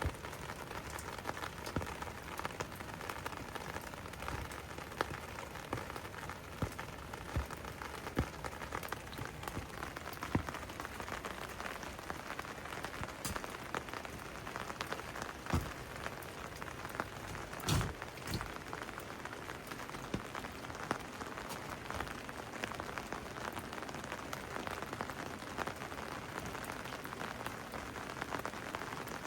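Steady rain falling, with scattered single drops hitting close by and standing out as sharp ticks; the loudest comes about eighteen seconds in.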